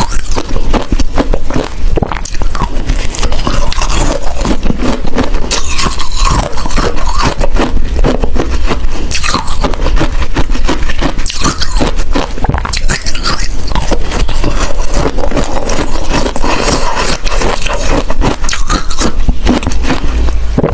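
A person biting and chewing ice cubes, close to the microphone: a dense run of crunching and cracking with no pause.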